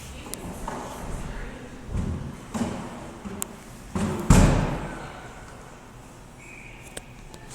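A series of sudden thuds against the boards of an ice hockey rink, four or so in a few seconds, the loudest about four seconds in with an echo trailing off in the arena.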